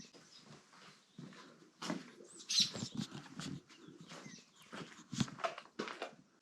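Irregular steps and scuffs of a person walking with a dog, the dog moving and breathing close by.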